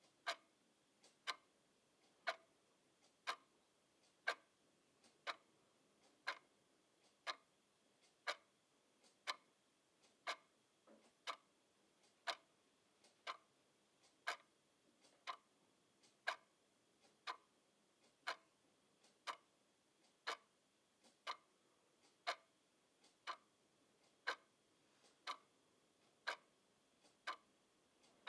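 A clock ticking steadily at about one tick a second, with a fainter tick between some of the beats.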